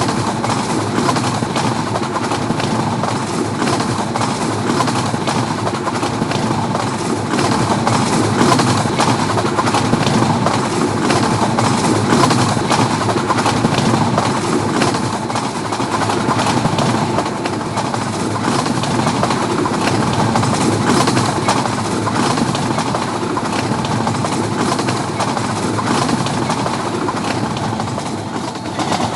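Train of LHB coaches running on the rails: a steady rushing noise of wheels on track with dense, rapid clicking and rattling throughout.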